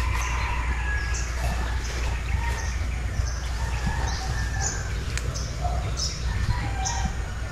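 Small birds chirping repeatedly in short high notes, over a steady low rumble.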